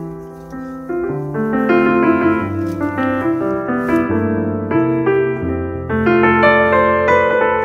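Background piano music: a slow melody of single notes changing about every half second over held low bass notes.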